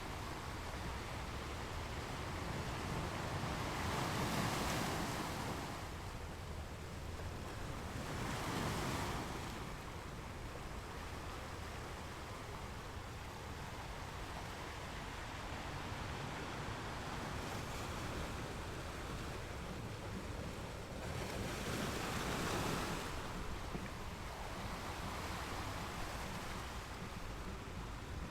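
Ocean waves breaking and washing on a beach shore, with three louder breaks about four, eight and twenty-two seconds in, over a steady wash and a low rumble.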